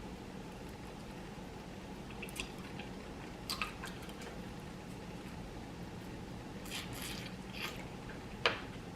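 Mouth sounds of eating a baked BBQ chicken wing flat: scattered wet smacks and clicks of chewing and biting, a few seconds apart, over a faint steady hum.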